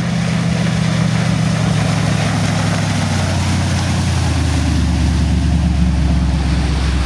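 A Stingray speedboat's Mercruiser 454 Magnum big-block V8 runs under way with a deep, steady engine note over a steady hiss. About three seconds in, the note settles lower.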